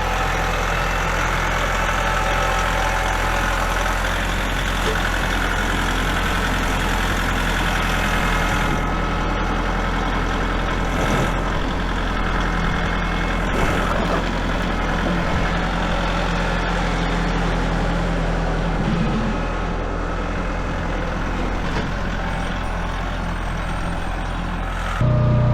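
An engine running steadily at low revs, with a few faint knocks over it.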